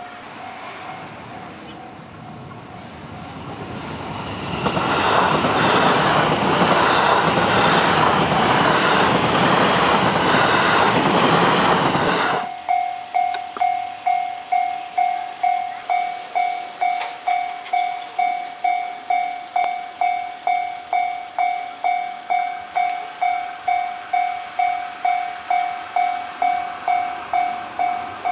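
Japanese level-crossing bell ringing in a fast pulse that fades in the first second, then a Hanwa Line electric train passing through the crossing, loud for about eight seconds with its wheels clacking over the rail joints. The sound cuts off suddenly and the crossing bell rings again at about two strikes a second.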